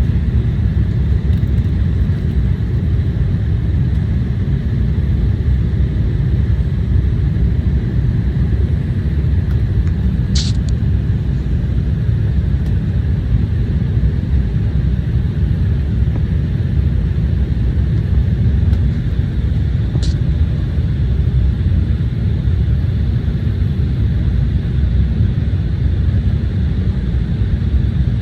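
Steady low rumble of an Embraer 175 jet heard inside the passenger cabin: engine and airflow noise with no change in level. Two faint, very short high-pitched sounds occur about ten seconds apart.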